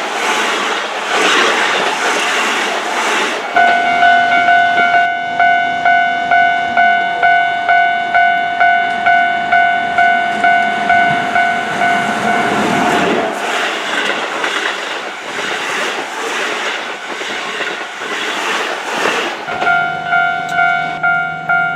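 Keihan electric train passing over a level crossing, wheels clattering over the rail joints. About three seconds in, the crossing's electronic warning bell rings, a repeated ding about one and a half times a second. A train passes again near the middle, and the bell rings again near the end.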